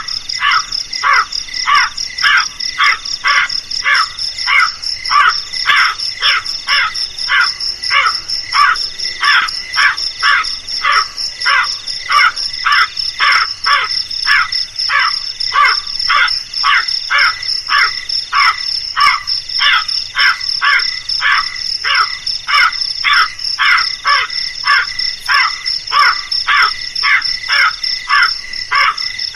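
Crow cawing over and over in an even, unbroken run, about two or three caws a second. A steady high insect trill runs beneath it.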